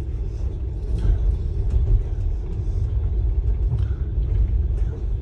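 Steady low rumble of a moving passenger train, heard from inside the sleeper carriage, with faint scattered clicks and rattles.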